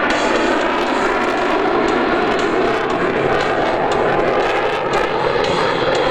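F-22 Raptor fighter jet's twin turbofan engines in a demonstration flight, a loud, steady jet noise that holds level.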